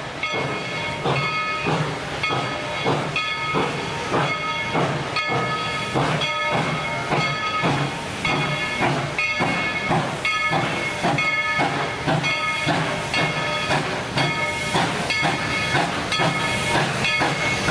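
Steam locomotive's bell ringing steadily, a clang about every 0.7 s with the ring hanging on between strokes, over the hiss of escaping steam.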